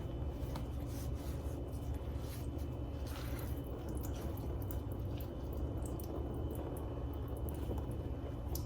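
Grated cucumber being wrung out in a cloth, with faint squishing and liquid dripping, over a steady low hum.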